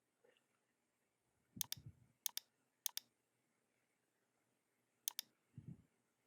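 Computer mouse clicks: four quick double ticks, press and release, spread over a few seconds, with a couple of soft low thuds in between, otherwise near silence.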